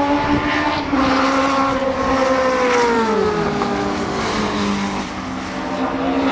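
Racing car engine running at high revs, its pitch falling about three seconds in and settling lower.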